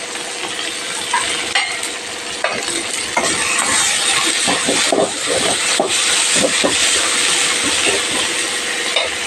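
Spices, onions and curry leaves sizzling in hot oil, with a spatula scraping and knocking against the pan as they are stirred from about two and a half seconds in.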